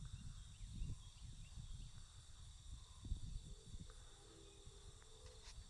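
Faint outdoor ambience: a steady high insect-like drone, with irregular low rumbles and a brief faint pitched tone near the end.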